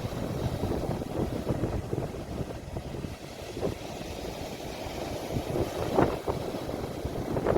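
Sea waves washing in, heard through a phone's microphone, with wind rumbling on the microphone and a few brief louder gusts or splashes.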